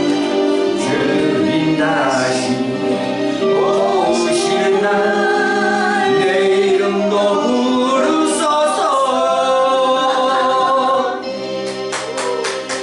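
Korean gospel praise song: singing over musical backing, with held notes and gliding vocal lines, turning quieter about eleven seconds in.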